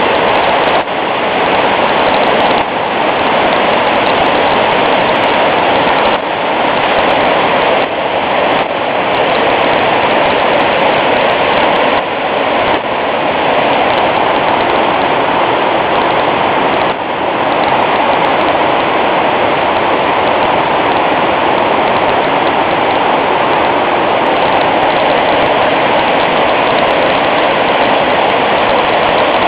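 Loud, steady rush of floodwater pouring out through opened flood gates.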